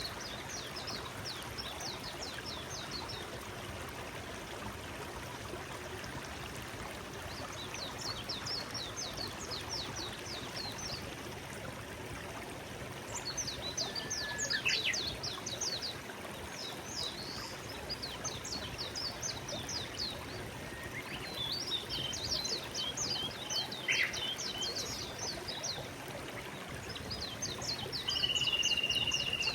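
Forest stream flowing steadily, with a songbird singing phrases of rapid, high, chirping notes that repeat every few seconds.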